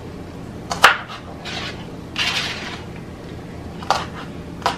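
Kitchen knife knocking sharply on a cutting board three times while vegetables are cut, with short scraping and rustling sounds in between.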